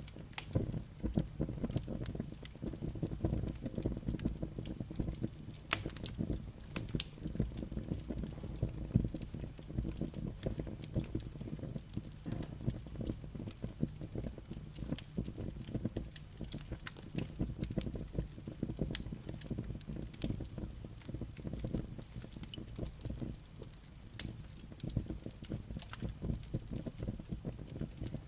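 Wood fire burning in a fireplace: a steady low rumble of flames with frequent irregular crackles and pops from the burning firewood and embers.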